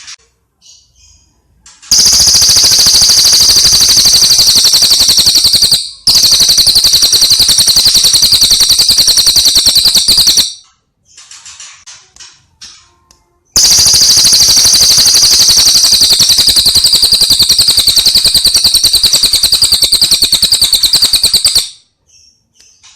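Songbird masteran recording: two long, loud, very rapid high-pitched trills of about eight seconds each, with short chirps between them.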